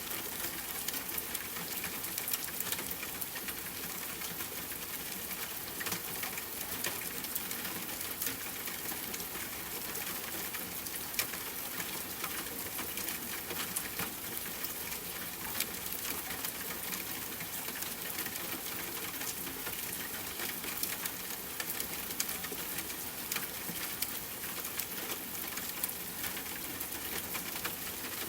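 Steady rain pattering on a tent, with gentle campfire crackling: scattered sharp clicks and pops over an even hiss.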